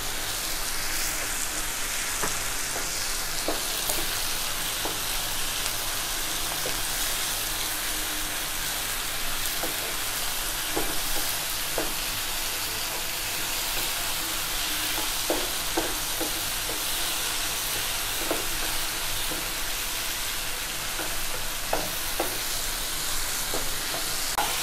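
Chopped onions and tomatoes with spice powder sizzling in a hot nonstick pan, stirred with a wooden spatula that scrapes and taps the pan now and then.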